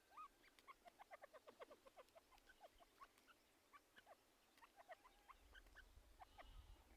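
Faint, scattered chirps and twitters of small birds, short rising notes coming every fraction of a second, over near silence.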